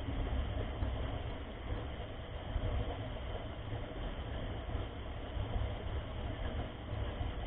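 Wind buffeting the microphone of a camera on a mountain bike being ridden: a steady, fluttering low rumble over a continuous rushing noise.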